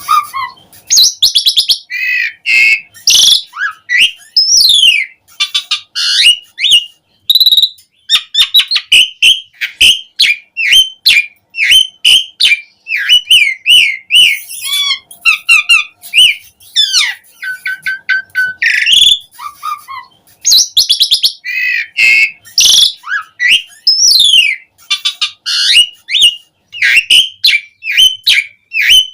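An Asian pied starling (jalak suren) singing vigorously: a fast, varied stream of loud whistles, chirps and rattling trills with only short pauses between phrases. This is the full, richly filled song that keepers call 'gacor'.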